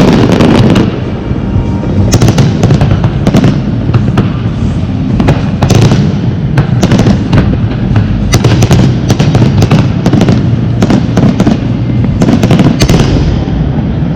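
Fireworks going off: many sharp bangs and crackles, some in quick bursts, over a continuous low rumble.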